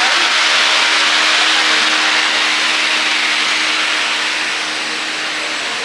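A loud, steady rushing hiss of moving air with a faint low motor hum underneath, easing off slightly in the last couple of seconds.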